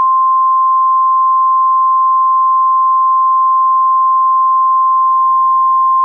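NOAA Weather Radio 1050 Hz warning alarm tone: one loud, steady high-pitched beep held without a break, the alert that precedes a broadcast tornado warning.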